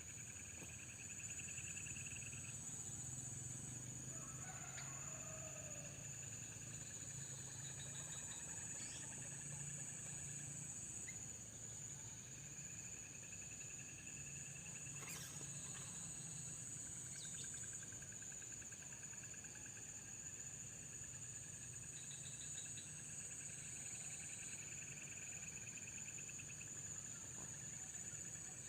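Insects chirring steadily with a high, constant buzz, joined every few seconds by pulsed, rattling trills. A faint bird call, possibly fowl, comes through about five seconds in.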